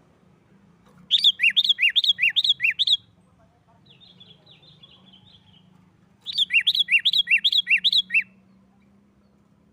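Sooty-headed bulbul (kutilang) giving its agitated, fighting-style 'nggaruda' song: two bursts of about two seconds each of quick, loud notes alternating high and low, about a second in and again after six seconds, with fainter twittering between.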